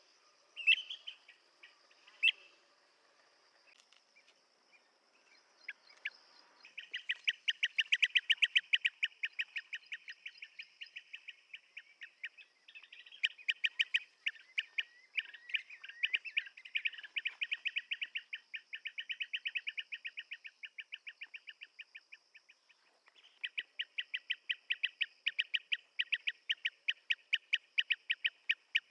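Blue-tailed bee-eater calling. A few separate calls come first, then about seven seconds in a long run of rapid, short notes begins, several a second, with a brief pause about six seconds before the end. A faint steady high tone sits underneath.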